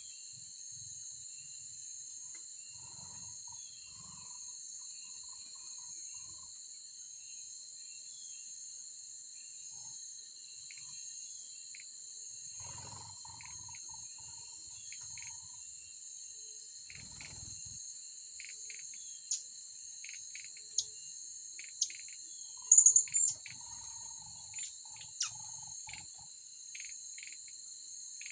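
Steady high-pitched insect chorus, with short sharp bird chirps scattered over it that come more often in the second half, several loud ones bunched together near the end.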